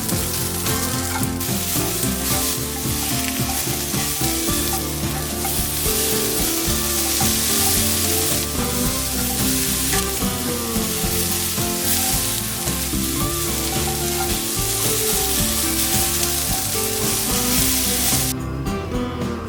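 Food sizzling in a hot pan while being stirred, a steady frying hiss that cuts off near the end.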